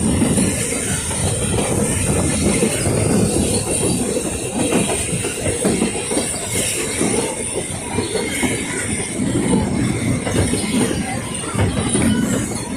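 Puffing Billy narrow-gauge steam train running along the track: a steady rumble and rattle of the wheels, with a thin high squeal of wheels on rail held throughout.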